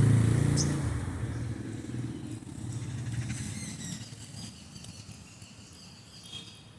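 A passing motor vehicle's engine hum, loudest at first and fading away over about four seconds, with a few faint sparrow chirps from roosting birds in the trees.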